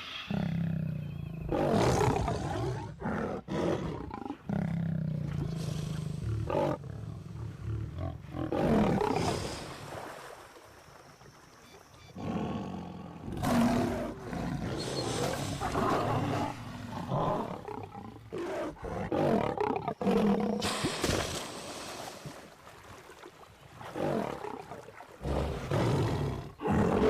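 A male lion growling and roaring in repeated loud outbursts while confronting crocodiles, with quieter stretches about ten seconds in and again a little past twenty seconds.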